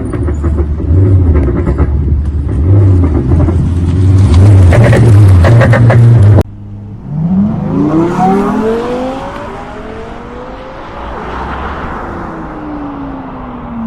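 Tesla with an active sound exhaust system, playing a simulated sports-car engine note through external speakers. It starts with a low revving rumble and crackles, which cut off abruptly about six seconds in. Then an engine note rises sharply as the car accelerates away and fades, with a falling tone near the end.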